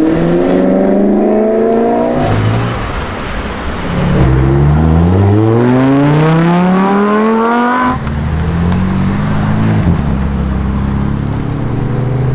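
Car engine accelerating. Its pitch climbs steadily for a few seconds, drops suddenly at about eight seconds, as at a gear change, then runs on at lower, steady revs.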